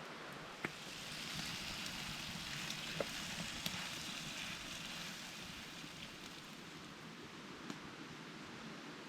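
Campfire crackling: a steady hiss that swells in the first half, with a few sharp pops.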